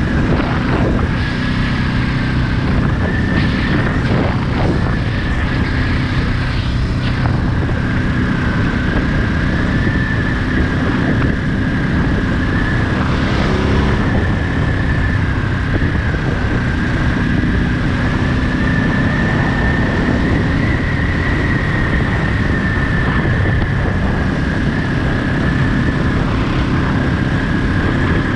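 Ducati Monster 937's 937 cc L-twin engine running steadily while riding, with a steady high whine above it.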